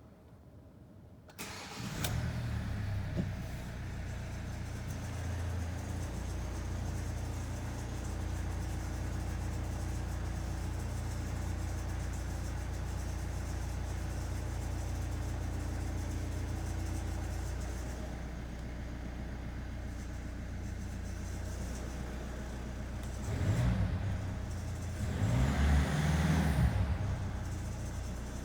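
Kia Optima's 1.7-litre diesel engine starting from cold about a second and a half in, then idling steadily with a strange metallic noise from the engine. Near the end the engine speed rises briefly twice.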